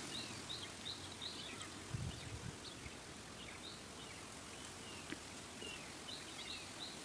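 Birds chirping: short, high chirps repeating irregularly over faint outdoor background noise. A few soft low thumps come about two seconds in.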